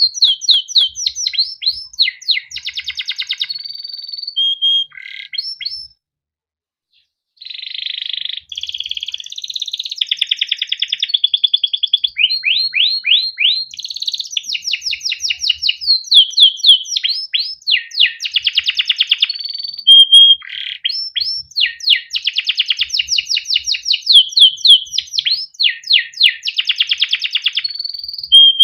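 Male canary singing a long song of fast trills, rapid chirps and rolling phrases, with one break of about a second and a half near the quarter mark before the song resumes.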